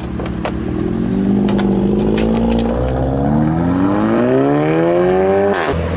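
Car engine revving as it pulls away, its pitch climbing steadily for several seconds. It then drops abruptly with a sharp crack near the end.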